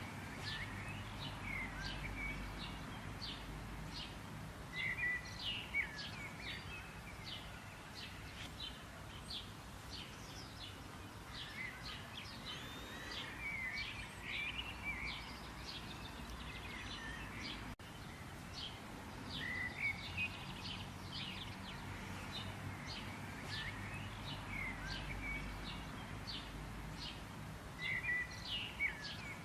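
Several birds chirping and singing in quick, repeated short calls and trills, over a steady low background rumble.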